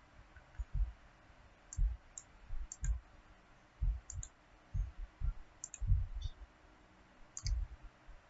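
Computer mouse clicks at irregular intervals, about one a second, some in quick pairs, each with a dull low knock.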